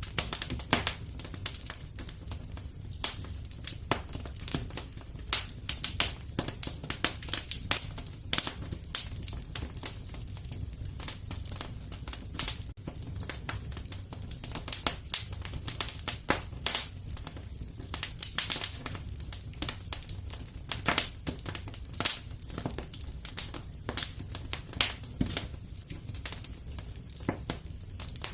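Wood fire crackling and popping irregularly over a low steady rumble of burning.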